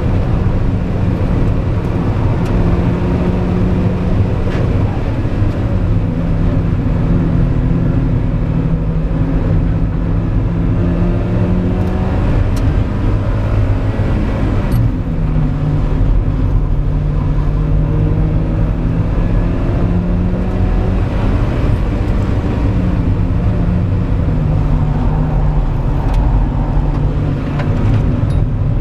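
Mazda MX-5 NB's 1.8-litre four-cylinder engine pulling hard on track, heard from inside the cabin. Its pitch climbs steadily and drops abruptly three times, as the revs fall at each change.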